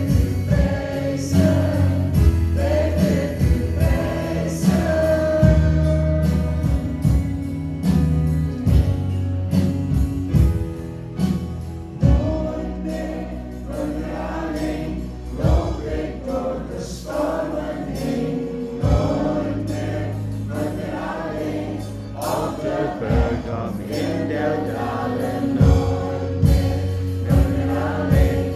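Gospel-style worship music: a choir of voices singing over a steady beat and bass.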